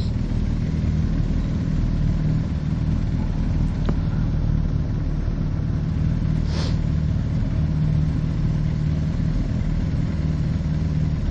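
Motorcycle engine idling steadily at even revs.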